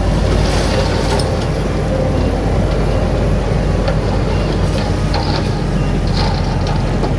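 Heavy diesel machinery running steadily under load, with scattered clanks and rattles over the low engine note.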